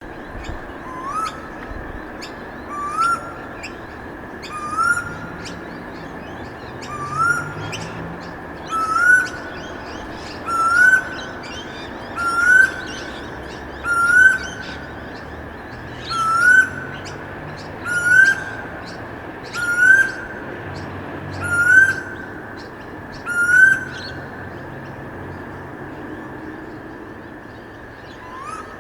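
A storm bird, a cuckoo, calling a loud rising note about every two seconds, about thirteen times, falling silent about 24 s in with one more call at the very end. Small birds chirp higher up and a steady high hum runs underneath.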